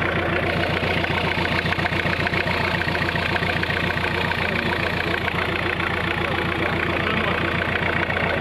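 Toyota 5L four-cylinder diesel engine idling steadily, with an even, rhythmic diesel clatter.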